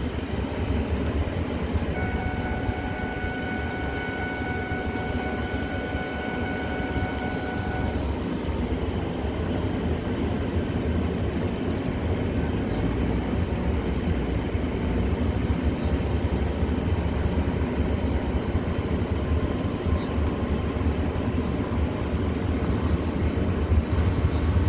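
Mercury Montego all-wheel-drive car driving slowly over a rough truck trail: a steady low rumble of engine, tyres and road. A steady high tone holds for about six seconds near the start.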